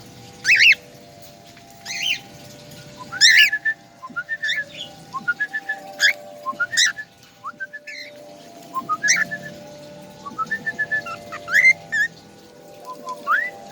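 A songbird calling over and over: loud, sharp whistled chirps every second or two, with runs of short quick notes in between. A faint steady hum of several tones lies underneath.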